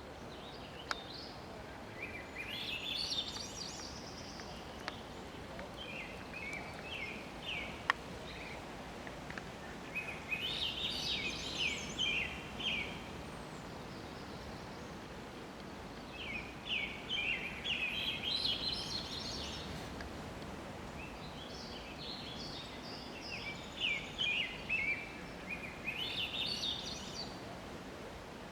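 A songbird singing: a phrase of quick, high chirping notes repeated four times, about every six or seven seconds, over a steady background hiss.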